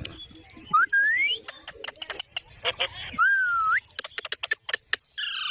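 Ringneck parrot whistling and chirping: a rising whistle about a second in, a run of short sharp clicks and chirps, a longer whistle that dips and then rises, and a harsher call near the end.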